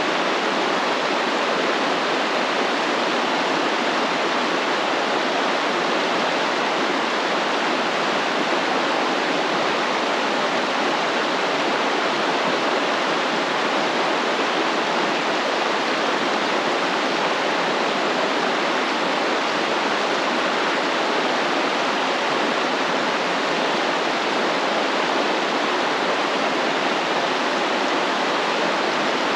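Stream water flowing, a steady, even rush with no breaks or changes.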